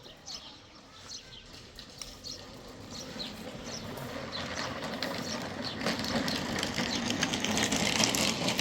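Construction machinery running with a fast mechanical rattle that grows steadily louder, with birds chirping over it in the first few seconds.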